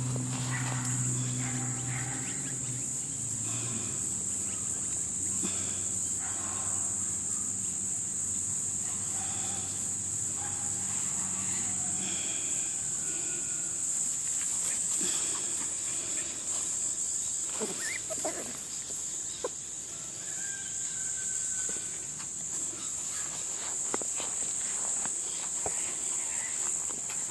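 Steady high-pitched insect drone with scattered short animal calls over it, and a low steady hum that stops about halfway through.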